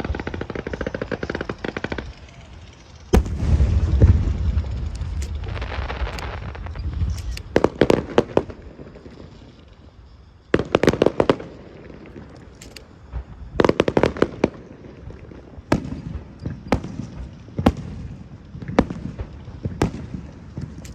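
Aerial fireworks going off: a dense rapid crackle for the first two seconds, then a loud boom about three seconds in, followed by a string of sharp bangs and crackling bursts.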